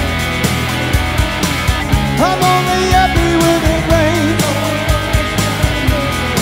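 Live rock band playing an instrumental stretch of a grunge-style rock song: electric guitars, bass and drums on a steady beat, with a lead melody line sliding and bending in pitch.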